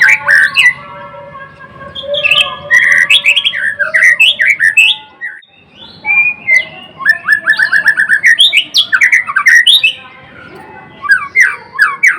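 White-rumped shama singing in full voice: loud phrases of varied whistles and fast runs of repeated notes, broken by short pauses.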